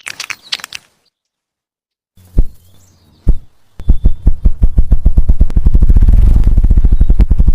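Ruffed grouse drumming with its wings as a mating display: two slow, separate low thumps, then beats that come faster and faster until they blur into a rapid whirr.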